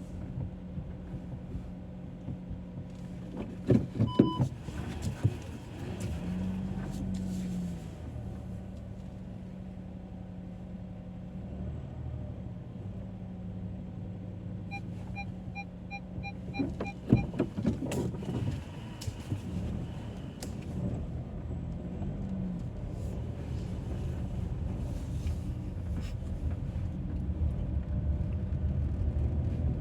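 Car driving, its engine and road noise a steady low hum inside the cabin. Clusters of sharp clicks and knocks come about four seconds in and again around seventeen seconds, with a short beep near the first, and a quick run of about eight short beeps around fifteen seconds in.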